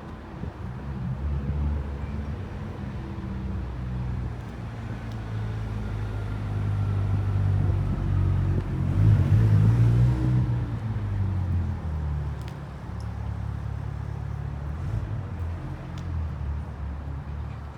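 Ferrari Purosangue's naturally aspirated V12 running at low revs, a deep rumble that swells to its loudest about nine seconds in and then eases off again.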